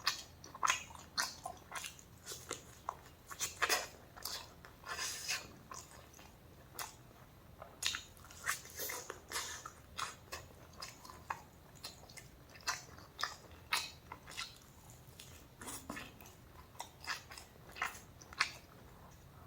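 A person biting and chewing crunchy food close to the microphone, with many sharp, irregular crunches.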